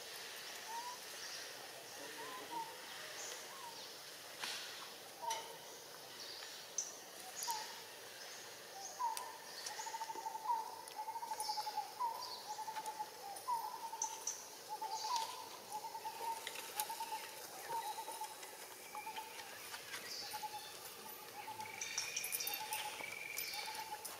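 Forest birds calling: one bird repeats short, mid-pitched hooked notes, scattered at first and then in a steady run of about two or three a second from about a third of the way in. Other birds chirp and there are scattered clicks, with a higher whistled note joining near the end.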